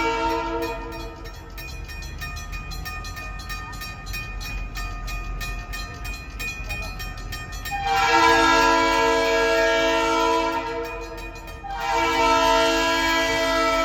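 Diesel freight locomotive's multi-chime air horn blowing for a grade crossing: one blast cuts off just after the start, then a long blast begins about eight seconds in and another about twelve seconds in. Between the blasts a crossing bell dings steadily.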